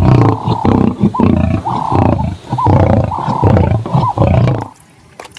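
Recorded lion roaring: a string of roars and grunts that stops about four and a half seconds in.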